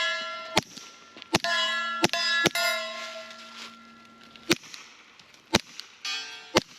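A series of sharp metallic strikes, about seven, irregularly spaced. The first few leave a bright ringing that fades away over a couple of seconds, and a shorter ring comes near the end.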